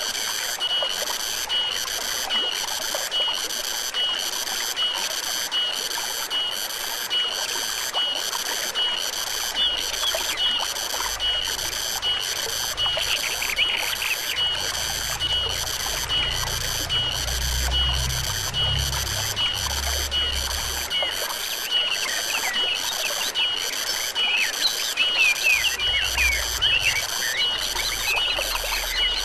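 A high-pitched animal call repeating evenly about one and a half times a second over steadily trickling stream water, with short bird chirps now and then.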